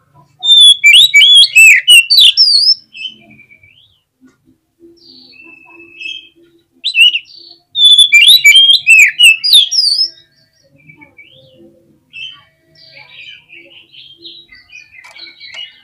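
Oriental magpie-robin (kacer) singing: two loud bursts of rapid, varied whistled phrases, the first about half a second in and the second around seven seconds in, each lasting two to three seconds. Quieter scattered call notes come between the bursts and near the end.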